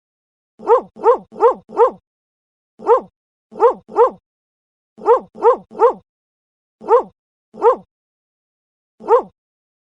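Dog barking: about thirteen short, sharp barks in quick runs of one to four, separated by dead silence.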